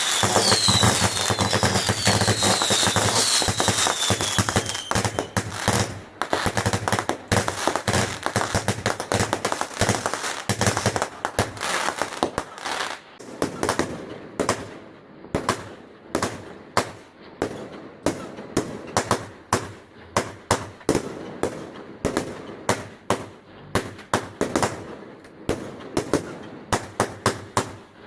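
Fireworks going off: dense crackling with several falling whistles in the first few seconds, thinning after about halfway into a fast string of separate sharp bangs, several a second.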